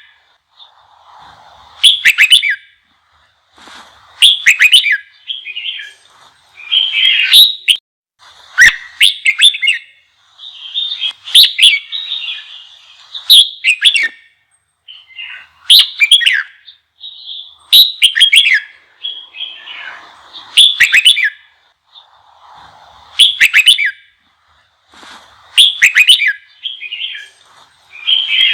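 Red-whiskered bulbul singing loud, short phrases of quick whistled and warbled notes, repeated about every two seconds, with softer, lower chatter in some of the gaps. It is the fired-up, challenging song that keepers use to provoke newly caught bulbuls.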